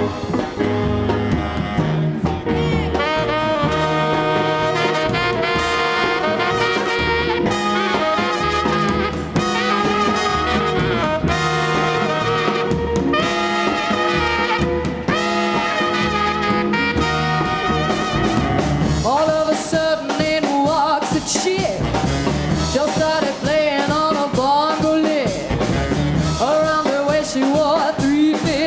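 Live swing band playing an instrumental break. A horn section plays riffs and held chords over bass and drums, and from about eighteen seconds in a single horn plays a solo line.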